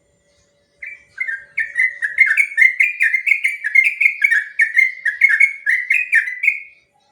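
Sooty-headed bulbul singing one long, rapid rolling phrase of repeated bubbly notes, about three a second, starting about a second in and stopping shortly before the end.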